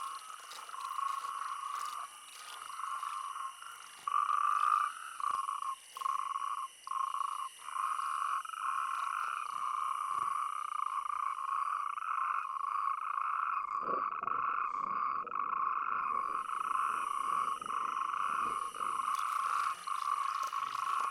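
Chorus of natterjack toads calling at night: a dense, steady churring at one pitch, broken by short gaps, with a faint high hiss underneath that drops out briefly in the middle.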